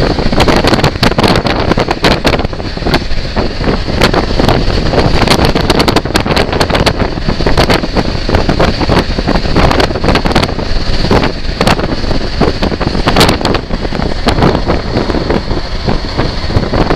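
Strong gusty wind buffeting the microphone: a loud, continuous rumbling rush broken by irregular sharp gusts, as a thunderstorm moves in.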